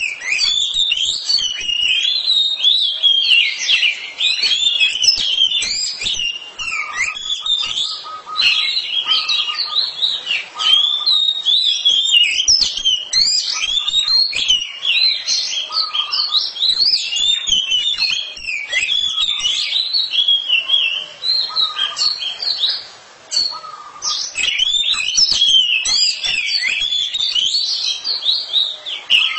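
Oriental magpie-robin (kacer) singing loudly: a rapid, continuous, varied warble of high chirps and whistles, with one brief pause.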